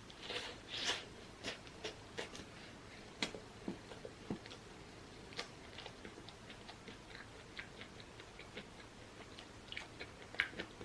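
Close-miked chewing of pizza: soft, irregular wet mouth clicks and smacks, a little louder near the start and again near the end.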